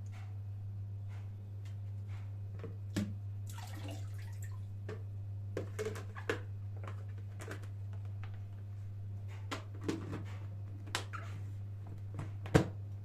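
Scattered light clicks and knocks of objects being handled, over a steady low hum, with one sharper knock near the end.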